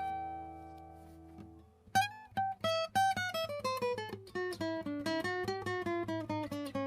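Yamaha FG-300s steel-string acoustic guitar played solo. A held note rings and fades away for about two seconds, then a quick run of picked single notes steps downward in pitch.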